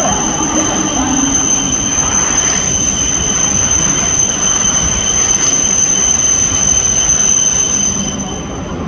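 E5 series Shinkansen train pulling into a station platform: loud rushing running noise with a steady high-pitched whine, which cuts off about eight seconds in as the noise drops, as the train comes to a stop.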